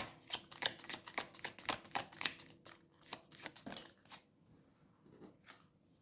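Tarot cards being shuffled by hand: a quick run of soft card slaps and flicks for the first two and a half seconds or so, then a few scattered taps as the shuffling slows and stops.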